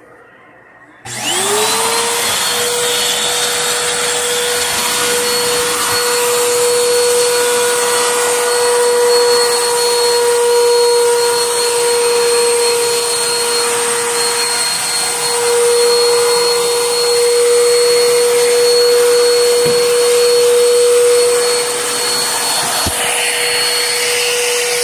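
Vacuum cleaner switched on about a second in, its motor spinning up quickly to a steady high whine over a rushing air hiss.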